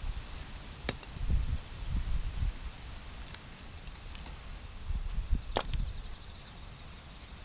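Wood fire burning with a steady hiss and two sharp pops, one about a second in and a louder one near the middle, while typhoon wind gusts rumble on the microphone.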